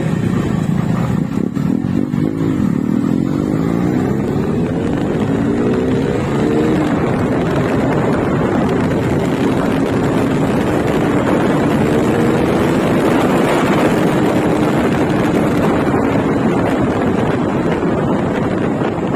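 Motorcycle engine accelerating hard, its pitch climbing and dropping back several times as it runs up through the gears, over steady wind and road rush.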